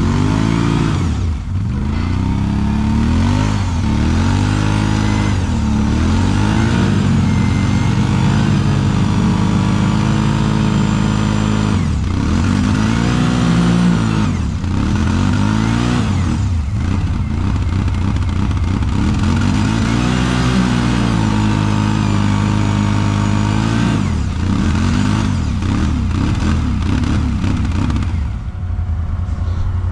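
Quad bike (ATV) engine running under hard throttle, its revs rising and falling again and again with a few steadier stretches in between.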